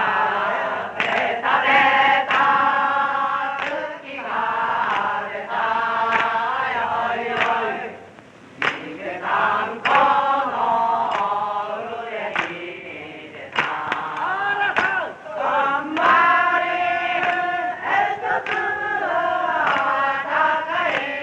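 A group of voices singing together, holding long wavering notes, with sharp knocks scattered through the song.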